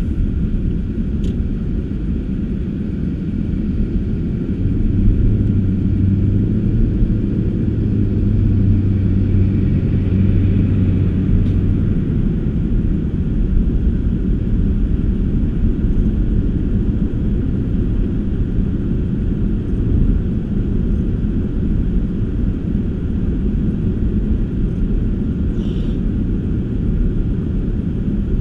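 A car being driven, its engine and tyres making a steady low rumble. A deeper hum swells from about five seconds in and fades near twelve seconds.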